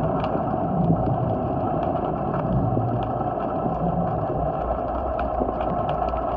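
Underwater noise below a wharf: a steady drone with many scattered short, sharp clicks.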